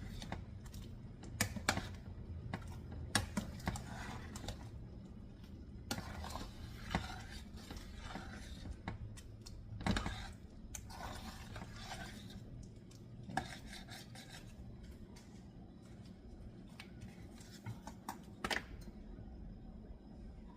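A cooking utensil clinking and scraping against a pot of fish soup as it is stirred. Irregular knocks come through the whole stretch and thin out in the second half.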